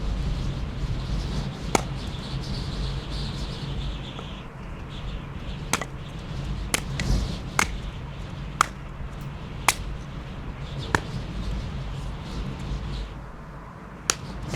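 A series of sharp knocks or cracks, most about a second apart, over a steady low rumble.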